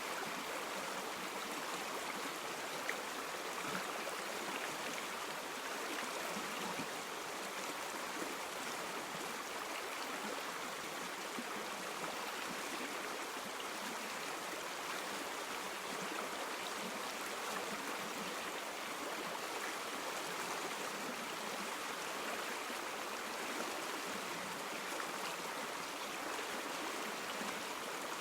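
River water flowing and splashing over stones: a steady, even rushing with small gurgles and splashes.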